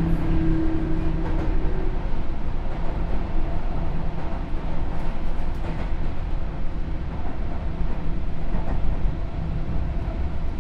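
Sotetsu New 7000 series electric train running, heard from inside the car: a steady rumble of wheels on the rails, with a steady hum from its Hitachi GTO inverter drive that fades out about two seconds in.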